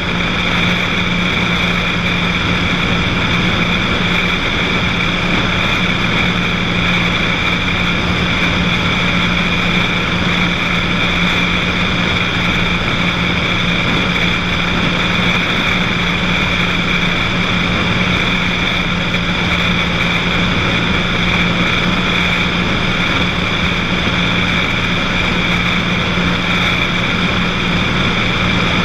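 Cessna 182's piston engine and propeller drone steadily in flight, with no change in pitch or level.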